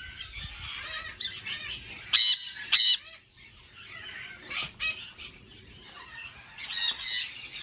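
A flock of cockatiels in an aviary calling, with short, high squawks and chirps that come loudest about two seconds in and again near the end.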